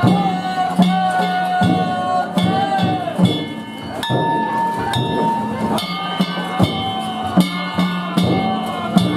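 Danjiri festival music: drum and metal gong strikes beating out a rhythm under a held melody line whose notes bend slightly.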